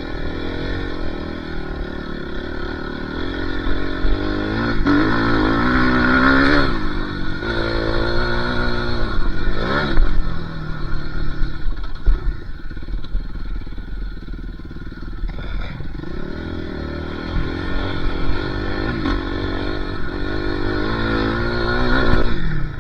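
Dirt bike engine being ridden hard, revving up and backing off again and again, its pitch climbing and dropping several times.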